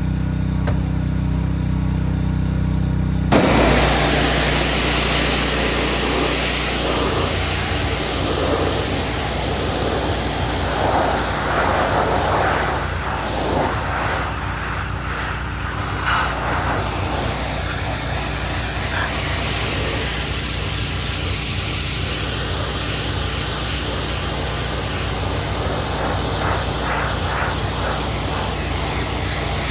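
AGT hot water pressure washer: its engine runs steadily, then about three seconds in the wand opens up and the high-pressure hot water spray hisses against greasy metal over the engine drone for the rest of the time.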